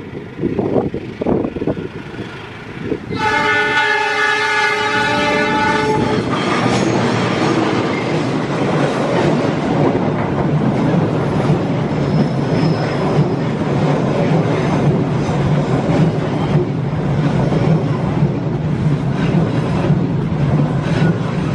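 Argo Parahyangan passenger train coming out of a tunnel: the diesel locomotive's rumble, then its multi-tone horn sounding for about three seconds, about three seconds in. After the horn the coaches pass close by with a steady rumble and wheel clatter.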